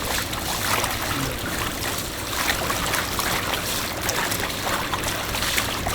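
Water running and splashing steadily, with small crackling spatters throughout.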